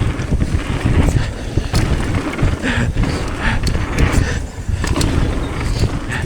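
Wind buffeting the camera microphone in a low, uneven rumble, with scattered clicks and knocks from a mountain bike rolling and rattling over a dirt trail.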